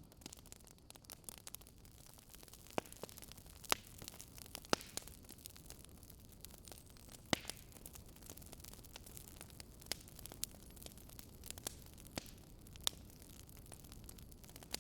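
Campfire crackling: irregular sharp pops and snaps, several louder than the rest, over a steady soft hiss.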